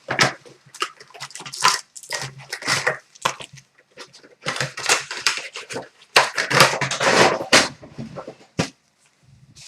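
Plastic and foil wrapping crinkling and tearing in irregular bursts as a sealed box of hockey trading cards and its packs are opened by hand.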